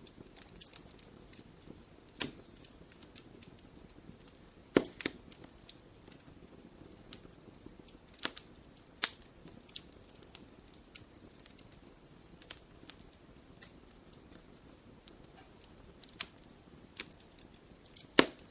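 Wood fire crackling in a fireplace: irregular sharp pops and snaps over a low steady hiss, the loudest pops about five seconds in, about nine seconds in and near the end.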